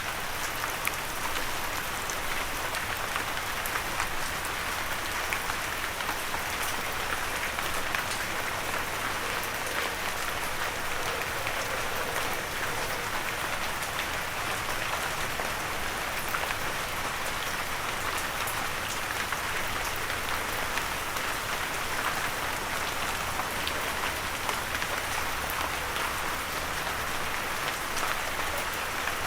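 Steady rain falling, with the close patter of individual drops ticking on a surface over an even hiss; no thunder.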